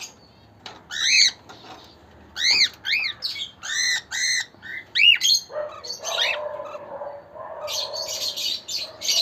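Cockatiels calling: about seven short arched whistles, each rising then falling, in the first half, then a lower, steadier call with scratchy chatter over it.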